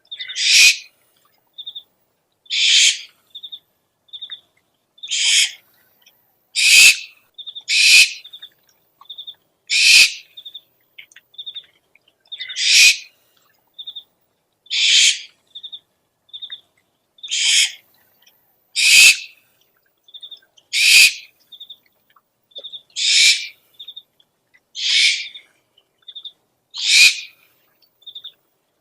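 Owl calls used as a lure recording: a harsh screech about every two seconds, with short, high, piping notes in between.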